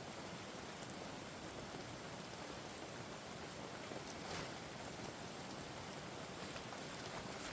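Steady rain falling, an even hiss of drops on surfaces, with one soft tap a little past halfway.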